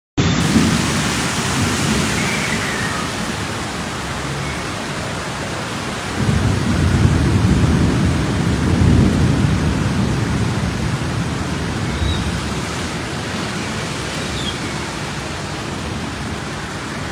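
Steady hiss of heavy rain, with a low rumble that swells suddenly about six seconds in and slowly fades.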